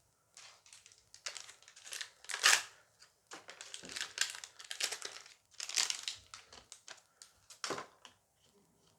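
Foil booster pack being torn open and crinkled by hand, a run of irregular crackles with the loudest tearing about two and a half seconds in and again around six seconds.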